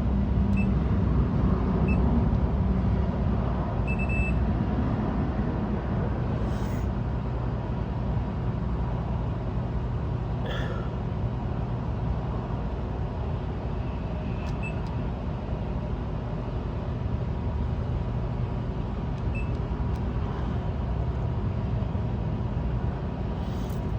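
A self-serve coffee machine beeps briefly and high-pitched a handful of times as its buttons are pressed, over a steady low machine hum.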